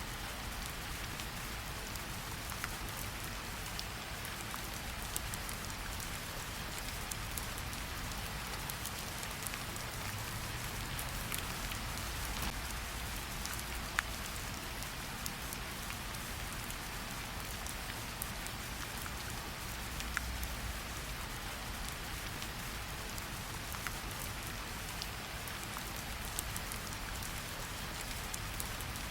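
Steady rain with scattered individual drops ticking against a window.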